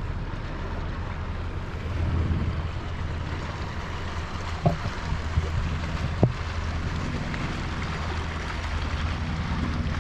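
Steady drone of a motorboat or jet-ski engine carrying across the water, with a swell about two seconds in and two short sharp knocks in the middle.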